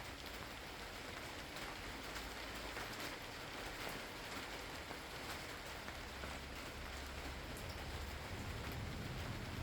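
Steady rain falling, with scattered drop ticks, and a low rumble of distant thunder starting to build near the end.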